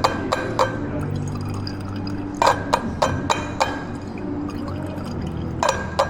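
Liquid pouring at a coffee bar, over sharp knocks and clinks of cups and equipment; a quick run of about five knocks comes in the middle.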